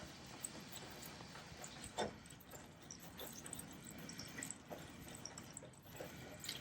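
Faint crafting handling noises: small taps, clicks and light rustling of paper materials, with one slightly louder tap about two seconds in.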